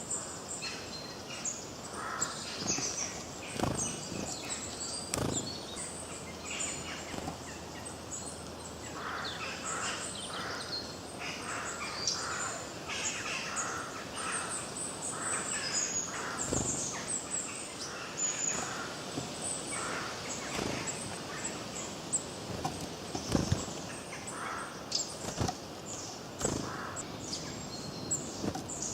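A chorus of forest birds chirping and singing, many short calls overlapping, with a few sharp clicks or knocks among them.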